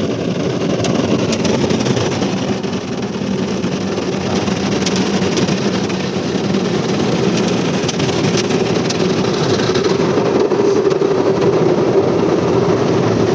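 Automatic car wash machinery working over the car, heard from inside the cabin: a steady, loud mechanical rush with a hum that strengthens about ten seconds in.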